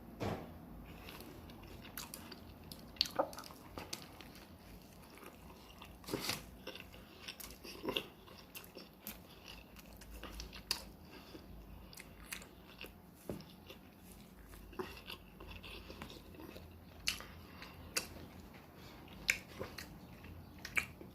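A person chewing and biting into a turkey and cheese sandwich close to the microphone, with irregular wet mouth smacks and clicks every second or so.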